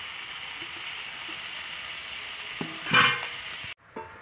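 Shredded cabbage hitting hot mustard oil in a steel kadai with frying chicken and potatoes, sizzling with a steady hiss. A brief louder clatter comes about three seconds in, and the sizzle cuts off suddenly just before the end.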